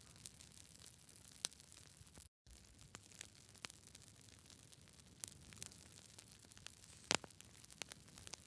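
Campfire crackling: a faint steady hiss with scattered sharp pops, the loudest about seven seconds in. The sound cuts out completely for a split second a little after two seconds in.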